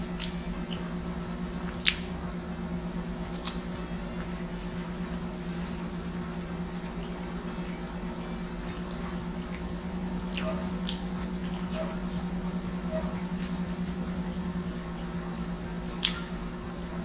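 Close-up chewing of pizza: soft, wet mouth sounds with a few sharp clicks and smacks, the last one as a piece of crust is bitten near the end, over a steady low hum.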